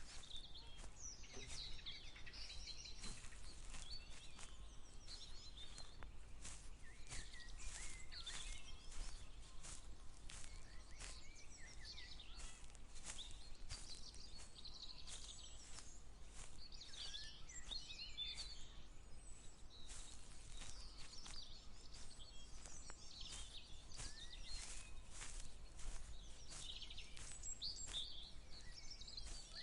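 Footsteps at a steady walking pace, a short crunch about twice a second, with several birds singing and chirping in bursts.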